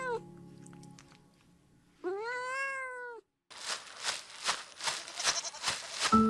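A cat meowing twice: the end of one meow at the start, then a full, arching meow of about a second. After a short pause comes a rapid shaking rattle at about three strokes a second.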